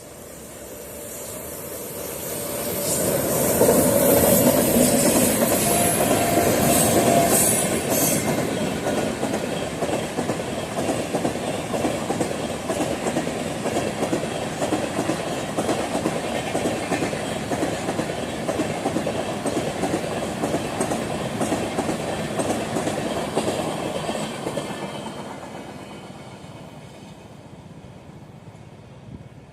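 An Indian Railways train passing close by. It swells in over the first few seconds, then its wheels clatter over the rail joints in a rapid, steady clickety-clack for about twenty seconds before fading away near the end.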